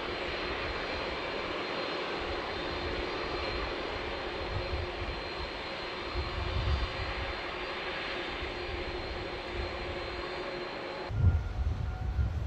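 Jet airliner's engines running with a steady roar and whine, which cuts off abruptly near the end. It gives way to low rumbling and a repeating high beep like a vehicle's reversing alarm.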